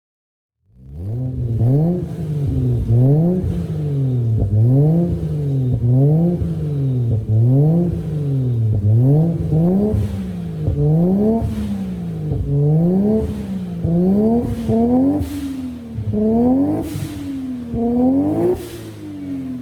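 Toyota 1JZ twin-turbo straight-six in a BMW E46, breathing through an HKS exhaust and muffler, revved over and over: the engine note climbs and drops back about once a second. It starts a little under a second in.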